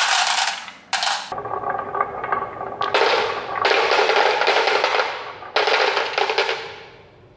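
Small hard toy parts clattering and rattling in several separate bursts, each made of many rapid clicks.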